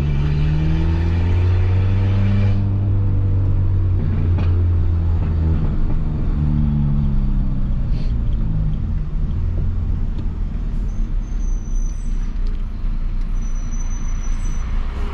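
Peugeot 206 1.4 petrol engine running through a straight-pipe exhaust while driving, its pitch rising and falling as the throttle is worked, then settling lower after about nine seconds. Two sharp exhaust pops come in the middle.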